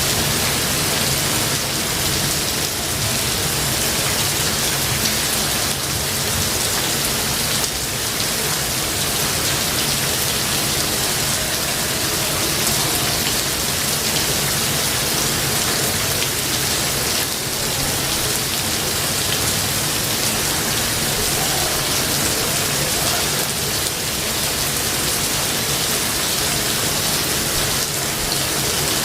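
Steady rain falling, an even dense hiss that does not let up.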